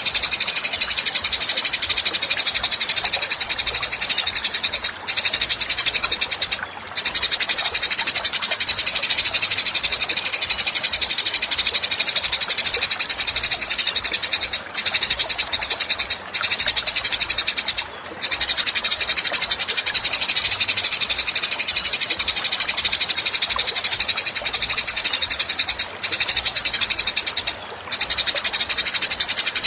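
A continuous high-pitched, rapidly pulsed chirring trill from a songbird-training recording, broken by several brief pauses.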